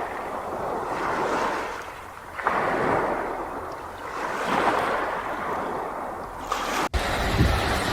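Sea waves washing onto a shore, each surge swelling and fading about every two seconds. The sound cuts off abruptly near the end.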